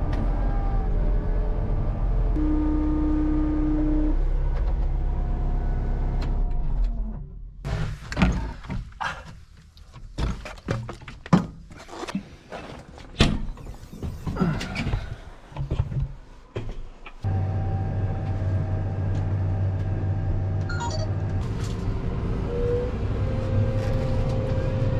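A vehicle engine running steadily. For about ten seconds in the middle it gives way to a quieter stretch of scattered knocks and clunks, and then the engine sound returns.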